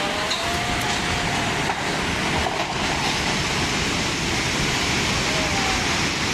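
Floodwater rushing through a city street: a loud, steady rush of water.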